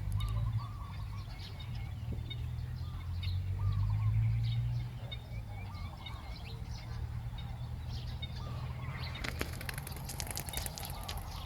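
Birds calling outdoors: short arched calls repeated every second or so, with higher chirps, over a steady low rumble. About nine seconds in comes a quick run of sharp clicks and rustling.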